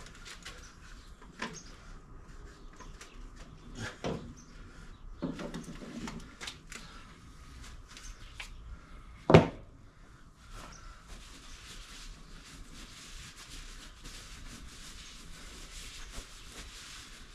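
Scattered light clicks and knocks of workshop handling, with one sharp, loud knock a little past halfway.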